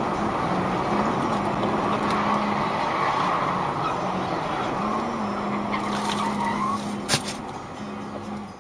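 Car driving, with steady road and engine noise. A single sharp knock comes about seven seconds in.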